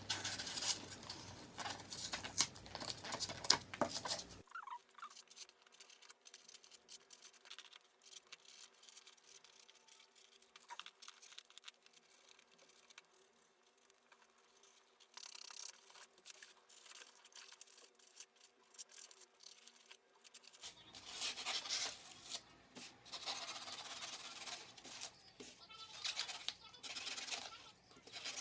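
Knife carving and scraping cured expanding foam: dense, irregular scratching and crackling. It drops to a much quieter, thinner passage about four seconds in and resumes about twenty-one seconds in.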